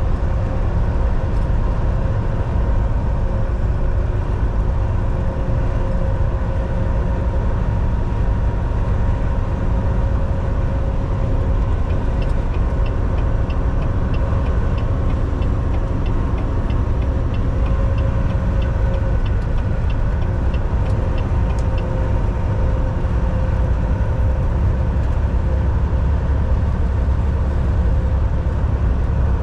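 Volvo VNL 760 semi truck cruising on the highway, heard inside the cab: a steady engine drone with road and tyre rumble. About a third of the way in, a faint regular ticking at about two a second starts and runs for some ten seconds.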